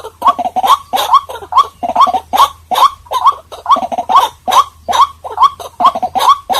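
White-breasted waterhen calling: a loud, unbroken run of repeated notes, several a second, each rising in pitch.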